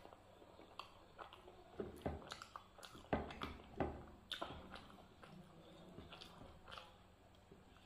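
Close-up chewing and lip-smacking of a mouthful of rice and dal eaten by hand: irregular wet clicks and smacks, busiest in the middle.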